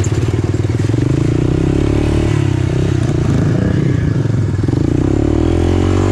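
Single-cylinder four-stroke engine of an off-road machine running under way, its pitch climbing about a second in, dropping back, then climbing again near the end as it is revved up.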